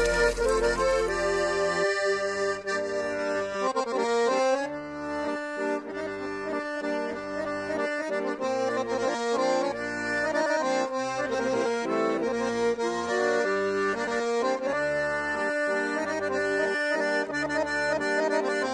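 Accordion music: a melody played over short, changing bass notes.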